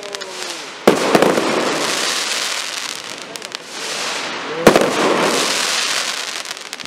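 Aerial fireworks going off: two sharp bangs, about a second in and near five seconds in, each followed by a dense crackle of crackling stars that slowly fades. A falling whistle dies away in the first half-second.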